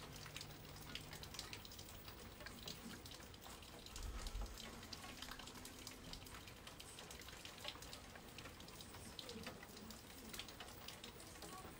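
Faint, irregular pattering and dripping of rain, with a brief low thud about four seconds in.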